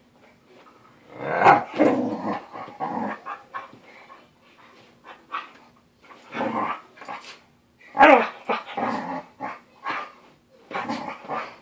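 Dogs growling and barking in rough play, in bursts several seconds apart.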